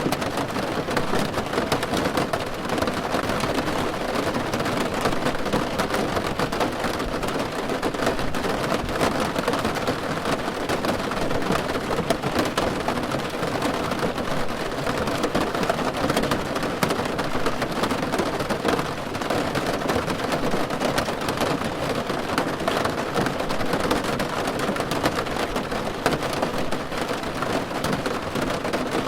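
Steady rain drumming on a car's roof, heard from inside the cabin as a dense, even patter of countless drops.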